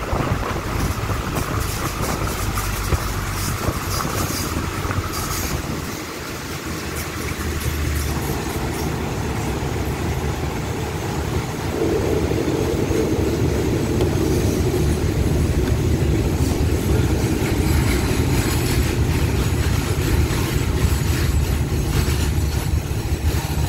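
Passenger train carriage rolling along the track as it pulls into a station, heard from an open window: a steady rumble of wheels on rails with rushing air. Sharp clicks of the wheels over joints and points come in the first several seconds, and a louder hum joins about twelve seconds in.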